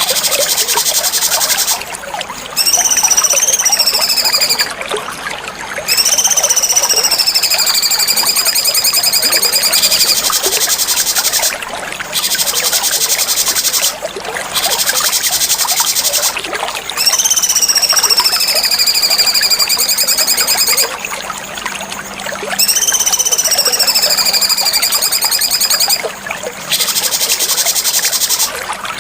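Cucak cungkok bird-song training recording: four long whistled notes that swoop up, glide down and hold for a few seconds each. They sound over a high, finely pulsing cicada-like buzz that stops and restarts several times.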